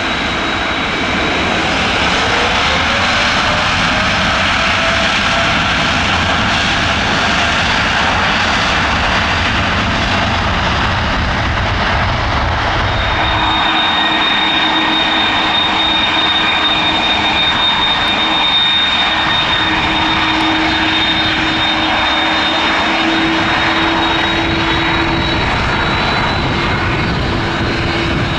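Jet engines of a widebody twin-engine airliner running on the ground, a steady high whine over a broad rumble. One tone rises briefly about three seconds in.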